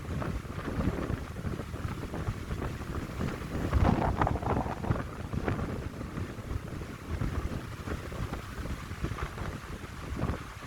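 Gusty wind in a pine grove, buffeting the microphone with a low rumble, the strongest gust about four seconds in.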